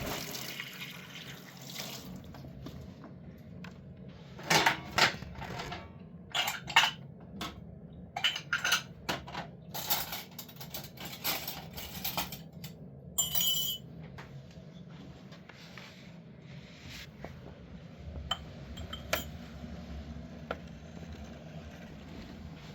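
Dishes and metal kitchenware clinking and knocking as they are handled, in a busy run of sharp clinks through the middle, then only an occasional click.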